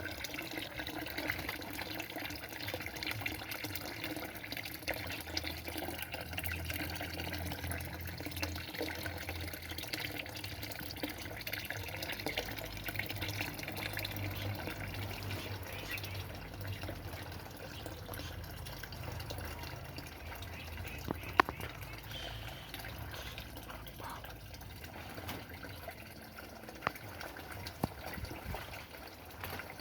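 Water running steadily, a continuous trickling and splashing, with a few sharp clicks in the second half.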